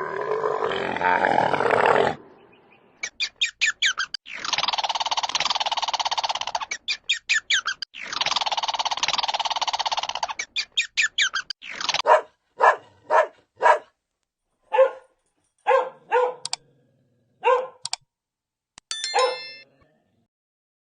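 Animal calls: a run of rapid pulsing calls and two long rasping calls, each about two seconds, followed by a dog barking in about ten short, separate barks.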